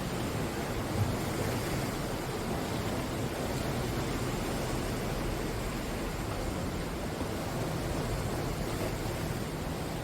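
Sea surf washing onto the shore, a steady rushing noise with no single wave standing out.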